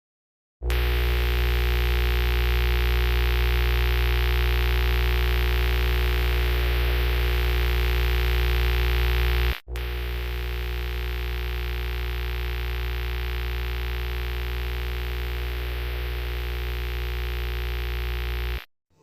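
Loud, dead-steady electrical hum with a strong low base and many even overtones, like mains buzz. It starts abruptly, drops out for an instant about halfway through, comes back a little quieter, and cuts off sharply near the end.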